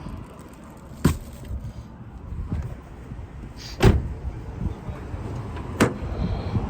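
Low, gusty wind rumble on the microphone, broken by three sharp knocks about two seconds apart.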